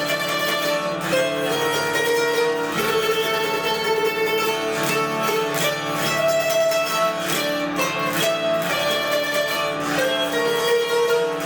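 Hungarian zither (citera) playing a folk melody, its plucked strings ringing in a steady run of notes over a held drone.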